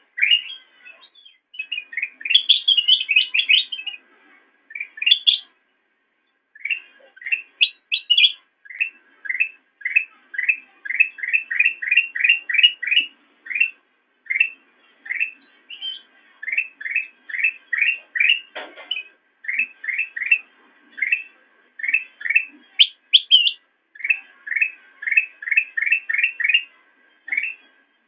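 A kutilang emas bulbul singing: long runs of quick rising chirps, about three or four a second, broken by a few higher, rapid trilled phrases.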